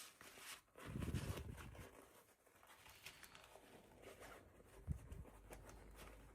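Faint handling noises from unboxing small toys: light rustling and crackling, with a soft low thump about a second in and another just before five seconds.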